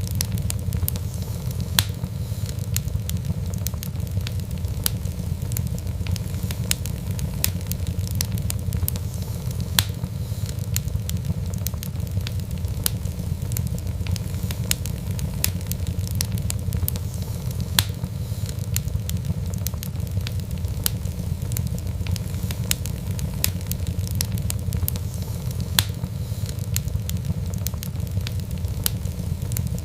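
Fire crackling in a fireplace: a steady low rumble of flames with frequent sharp pops and crackles, a few of them louder.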